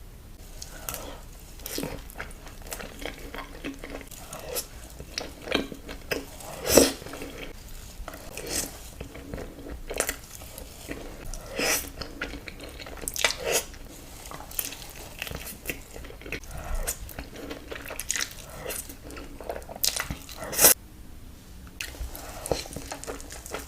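Close-miked eating sounds: crispy fried chicken tenders being bitten and chewed, with irregular crunches throughout and the loudest about seven seconds in and again near twenty-one seconds.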